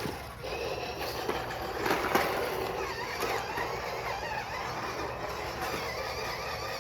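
Toy RC cars' small electric motors whining, the pitch wavering up and down as they speed up and slow, with a brief knock about two seconds in.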